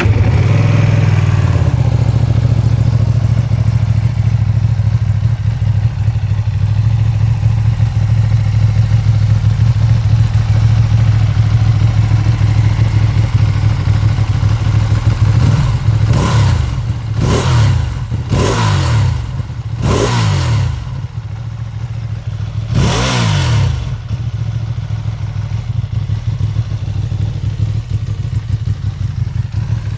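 Ducati Panigale V2's 955 cc Superquadro twin-cylinder engine on its stock exhaust, idling steadily, then blipped five times a little past halfway, each rev rising sharply and falling back to idle, the last held slightly longer before it settles to idle again.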